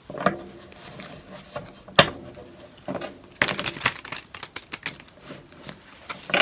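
Tarot cards being handled and laid down: scattered clicks and flicks, with a sharp snap about two seconds in and a quick run of flicks around three and a half seconds.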